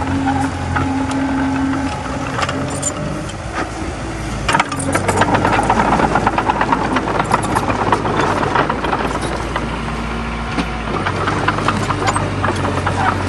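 Komatsu D20A bulldozer's diesel engine running, with rapid metallic clanking and rattling of its tracks. About four and a half seconds in the engine note drops lower and the clanking grows louder, then both ease back near the end.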